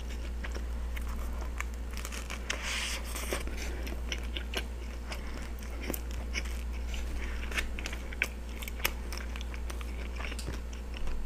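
Close-miked chewing of a steak and cheese sub on a soft roll: a run of wet mouth clicks and smacks. A brief rustle comes about three seconds in, over a steady low hum.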